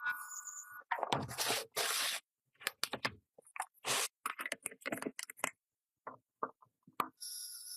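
Short bursts of hand scraping during restoration work on an old pencil sharpener, several strokes of varying length, cut together with dead silence between them.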